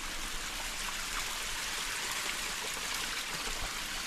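Spring-fed forest stream flowing steadily, a constant rush of running water.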